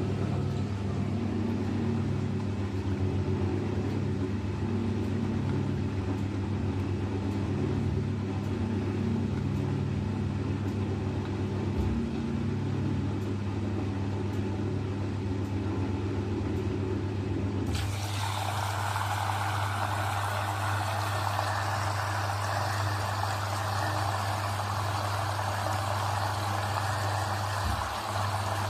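Eudora 38 Super washing machine running with a steady low hum and rumble; about 18 seconds in, water starts rushing in with a sudden hiss, the machine filling for a rinse.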